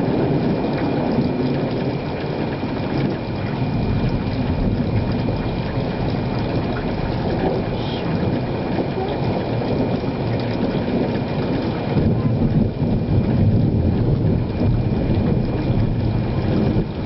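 Thunderstorm: a steady low noise of wind and rain, with thunder rolling louder about twelve seconds in.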